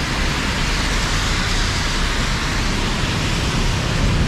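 Heavy rain falling with a steady hiss, mixed with road traffic on a wet street.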